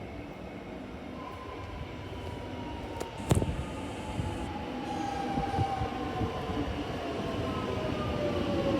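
Electric suburban train drawing near, its motor whine sliding steadily down in pitch as it slows and growing louder toward the end. There is one sharp clack about three seconds in.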